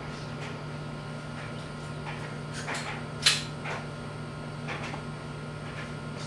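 Faint scrapes and clicks of hand work on a car's disc brake caliper and pads, with one sharp metallic clank about three seconds in, over a steady low hum.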